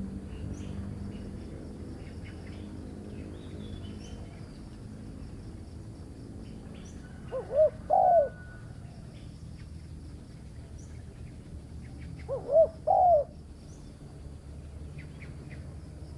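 Spotted dove cooing twice, about five seconds apart; each call is a short note followed by a longer double note. Faint chirps of small birds sound between the calls.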